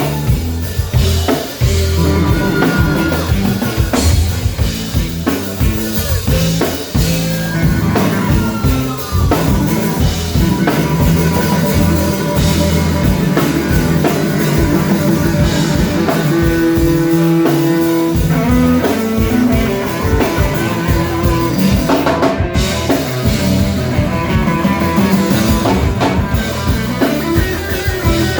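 Live rock band playing an instrumental passage: electric guitar over drum kit and bass.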